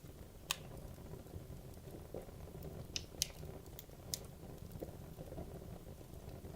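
Wood logs burning in a fireplace: a low steady rush of flame with scattered sharp crackles and pops. The loudest pop comes about half a second in, and a few more come close together around three to four seconds in.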